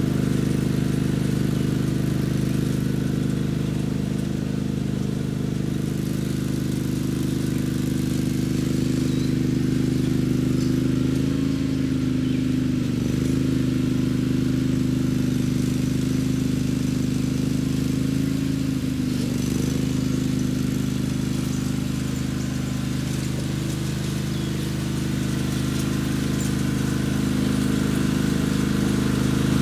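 Mini tractor's engine running steadily while pulling a homemade tiller that rips up the ground. Its pitch dips briefly twice, near the middle and about two-thirds of the way through.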